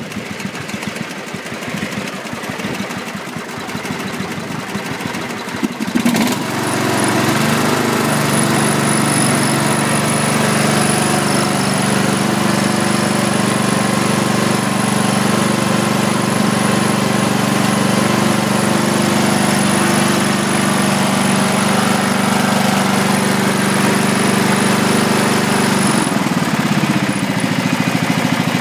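Briggs & Stratton small lawn mower engine running: it runs slow and uneven at first, speeds up suddenly about six seconds in, holds a steady high speed with a thin high whine, then slows back down near the end.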